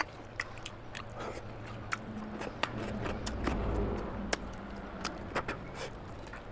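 Close-miked eating: wet smacks and sharp clicks of chewing curry and rice eaten by hand. A low rumble swells and fades in the middle.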